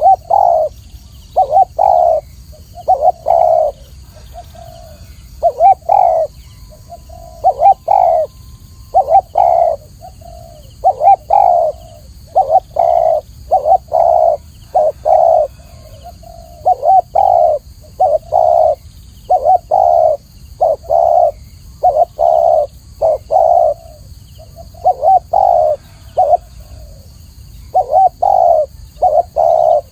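Spotted dove cooing over and over: short phrases of two or three low coos with brief pauses between.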